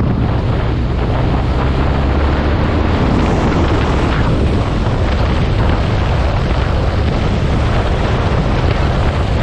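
Motorcycle riding at speed: heavy wind buffeting on the microphone over a steady low engine drone.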